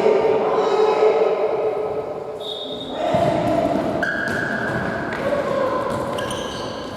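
Futsal match play in a sports hall: players' voices calling out over thuds of the ball, all echoing in the hall.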